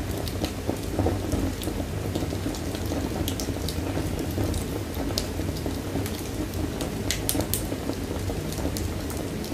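Fire burning in a fireplace: a steady low rumble of flames with frequent scattered crackles and pops.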